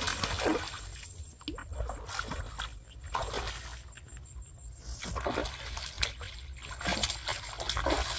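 Water splashing and sloshing in irregular bursts, several sharp splashes a second or so apart.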